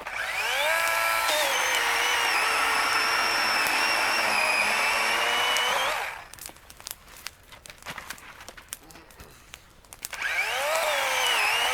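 Battery electric chainsaw spinning up with a rising whine and running steadily, its pitch dropping a little as it cuts into firewood logs. It stops suddenly about halfway through, a few knocks follow, and it whines up again near the end for the next cut.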